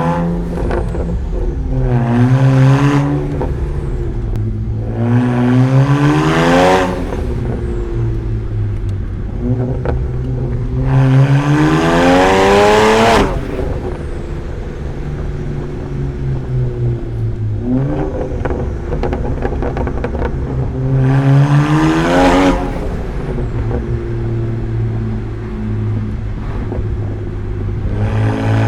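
BMW E93 335i's turbocharged inline-six, with catless downpipes and a muffler delete, idling and revved about five times. Each rev climbs in pitch and falls back to idle; the one near the middle is held longest and cuts off sharply.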